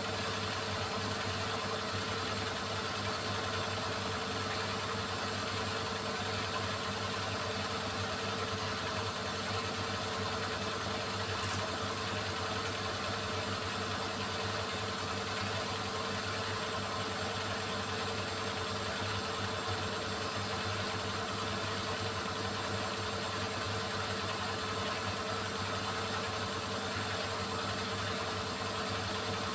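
Beko WMY81283LMB2 washing machine running steadily, a constant motor hum over even drum noise.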